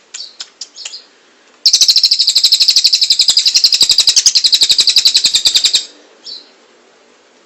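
Tengek cililin bird singing: a few short high chirps, then a loud, rapid trill of about a dozen high notes a second lasting some four seconds, and a single chirp after it.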